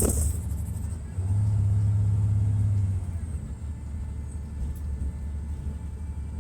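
Detroit Diesel Series 60 inline-six diesel of an MCI D4000 coach running with a low rumble, growing louder for about two seconds starting about a second in and then settling back. A brief sharp noise sounds right at the start.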